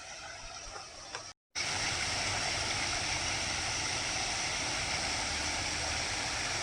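Small waterfall: a steady rush of falling, splashing water. It is quieter at first, breaks off for a moment about a second and a half in, then comes back louder and steady.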